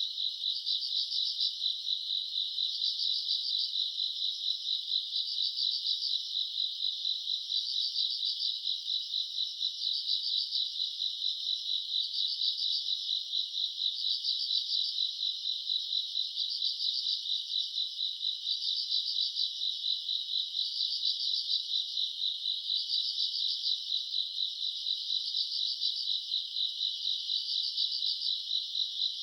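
Night chorus of grass insects such as crickets: a steady high trill, with a second pulsed call above it repeating about every one and a half to two seconds.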